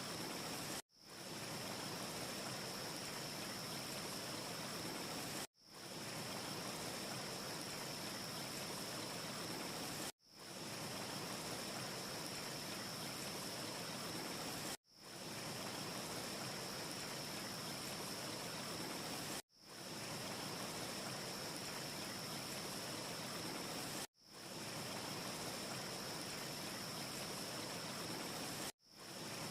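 Steady, even rushing noise with a faint high whine running through it, from a short ambience loop. The loop cuts out abruptly about every four and a half seconds and fades back in within half a second. No fire crackle can be picked out.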